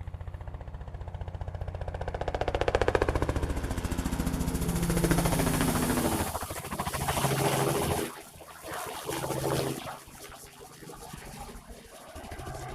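Crop-spraying helicopter making a low pass overhead: the fast, even chop of its rotor grows louder, peaks about three to six seconds in, then fades away.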